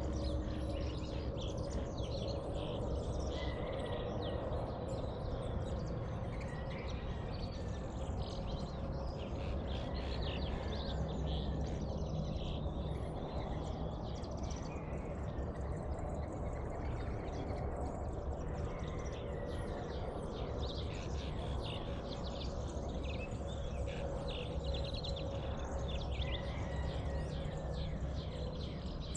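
Birds of a dawn chorus chirping and calling throughout, many short chirps with a few brief whistled notes, over a steady low background rumble.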